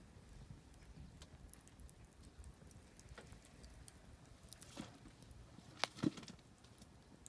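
Oak firewood crackling quietly in a campfire, with scattered small ticks and a few sharper pops, the loudest two close together about six seconds in.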